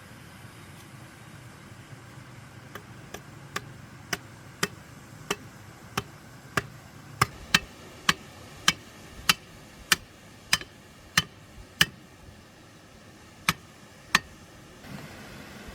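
A series of sharp knocks, a hard object struck again and again about once every half second. They start faint about three seconds in, grow louder, stop about twelve seconds in, and come twice more near the end.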